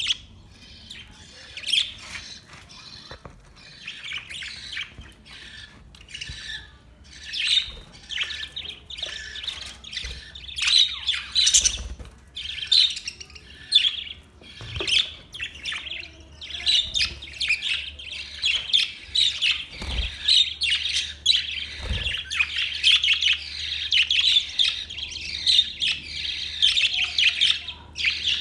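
Budgerigars chirping and squawking, sparse at first and building into a busy, almost continuous chatter about halfway through, with a few soft low thumps.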